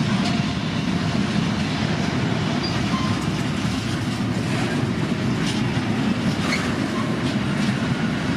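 Freight train wagons rolling past, a steady noise of wheels on the rails.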